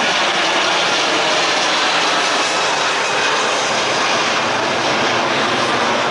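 Jet airliner's engines running at high power, a steady loud rush with faint whining tones over it.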